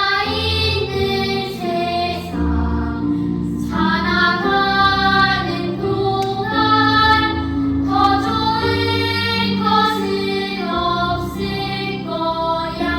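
Children's vocal ensemble of five boys singing a slow song in harmony over instrumental accompaniment, the phrases held long.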